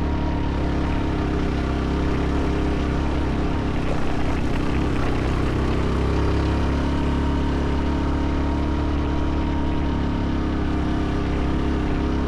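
A small engine running steadily at a constant speed, with a low, even hum and a thin steady tone above it.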